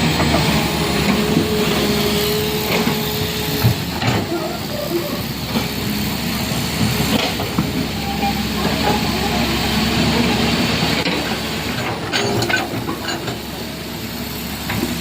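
Heavy vehicles running on the road, a steady engine and road noise with a few sharp knocks.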